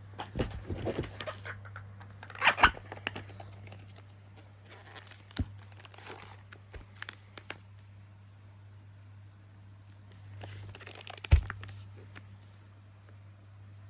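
Packaging being handled: irregular crinkling and rustling with a few sharp knocks, the loudest about two and a half seconds in and again near eleven seconds. A steady low hum runs underneath.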